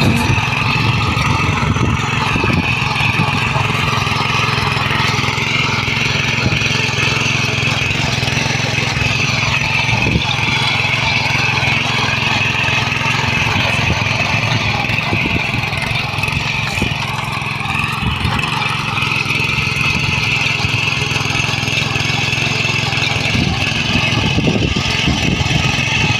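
A 7 HP petrol power weeder's engine running steadily, with a constant hum and a scatter of small clicks.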